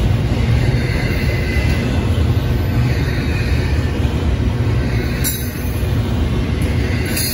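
Double-stack intermodal container cars rolling past close by, a steady loud rumble of wheels on rail.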